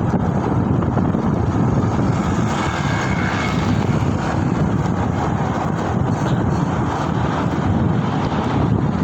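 Steady rush of wind on the microphone mixed with road and traffic noise while riding.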